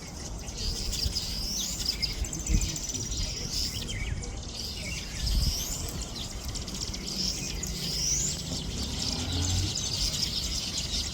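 Weaver birds calling: a steady busy chatter with repeated rising whistled notes, over a low rumble.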